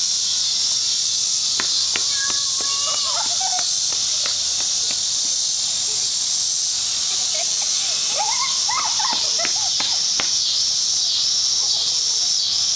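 Steady high-pitched insect chorus, like crickets, with faint distant voices and a few sharp clicks.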